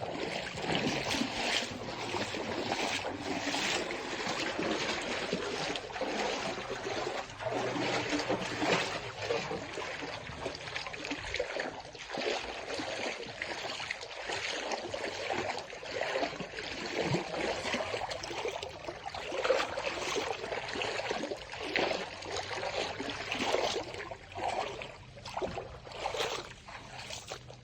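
River water running and splashing over rocks, a steady uneven rush that fades somewhat near the end.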